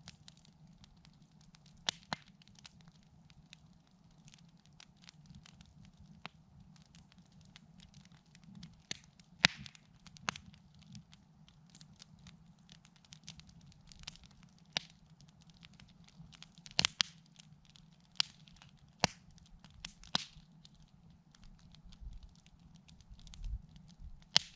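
Wood campfire crackling, with irregular sharp pops of burning wood, the loudest about nine and a half and seventeen seconds in.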